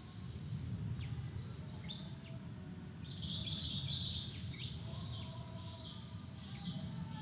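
Small birds chirping: quick high trilled phrases repeated again and again, mixed with sharp down-slurred notes, over a steady low rumble.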